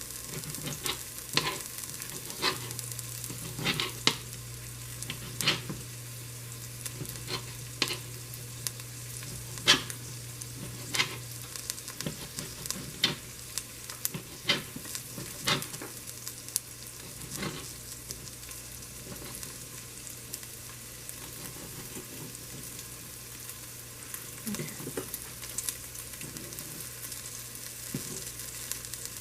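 Onions and peppers sizzling in oil in a frying pan, with sharp knife taps on a cutting board about once a second as chicken breast is cut into strips; the taps thin out about halfway through.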